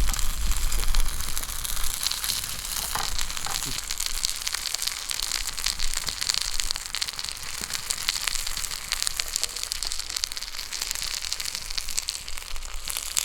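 A skillet sizzling over a wood campfire: a steady hiss dense with fine crackles and pops.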